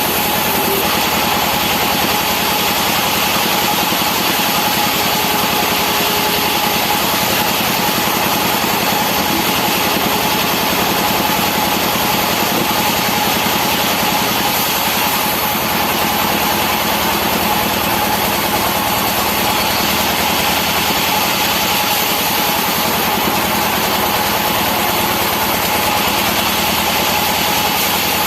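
Sawmill machinery running steadily, with a constant whine over the engine noise.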